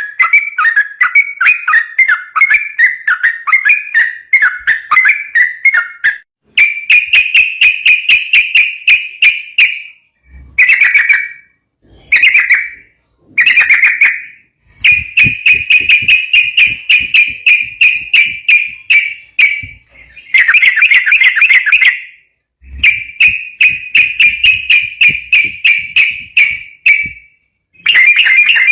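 Sooty-headed bulbul singing a rapid, rattling song. The phrases are strings of quick repeated notes lasting a few seconds each, with short pauses between them. Midway there are a few brief bursts.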